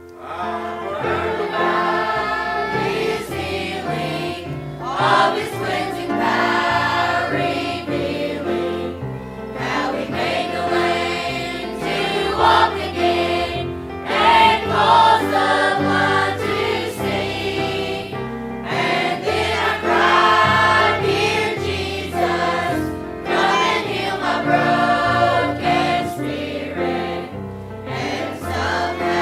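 Congregation or choir singing a hymn with instrumental accompaniment.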